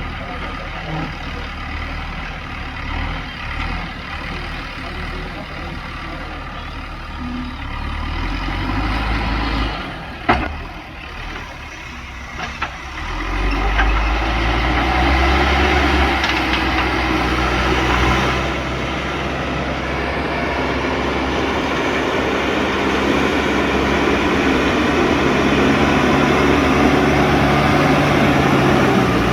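JCB backhoe loader's diesel engine running, with a single sharp knock about ten seconds in. The engine then revs up and runs louder under load for the rest of the time.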